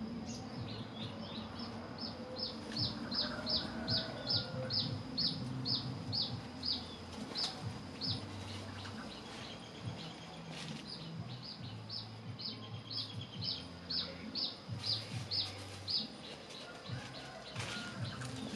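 A bird calling a long run of short, high, evenly spaced chirps, about two to three a second; it pauses for a couple of seconds midway, then gives a second run.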